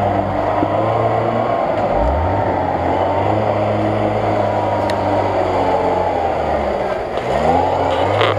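Off-road 4x4's engine revving under load as it crawls over rough sandy ground; the revs rise about two seconds in, drop off around seven seconds, and rise again near the end.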